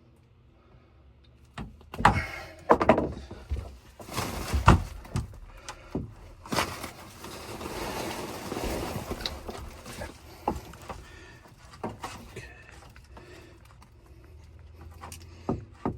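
Hands working on low-voltage thermostat wiring: scattered sharp clicks and knocks, with a stretch of rasping scraping about halfway through.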